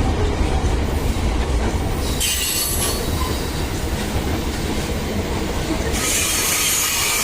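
Loaded iron-ore freight train rolling past: a steady rumble of wheels on the rails. Bursts of high wheel squeal and hiss come about two seconds in and again near the end.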